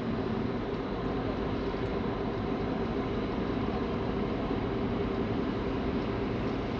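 Passenger ferry under way: its engines running with a steady drone over an even rush of noise.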